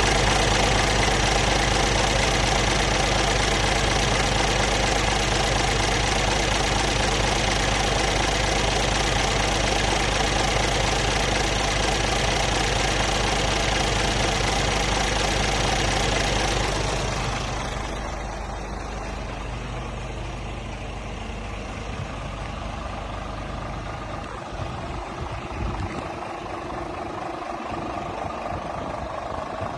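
Scania R450 truck's 13-litre inline-six diesel idling steadily. About two-thirds of the way through, its sound drops away sharply, leaving quieter, uneven background noise with a few low thumps.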